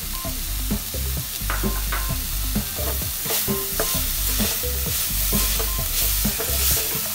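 Chopped onions, ginger, garlic and green chillies sizzling in a kadai, stirred and scraped across the pan with a wooden spatula in quick, irregular strokes over a steady frying hiss.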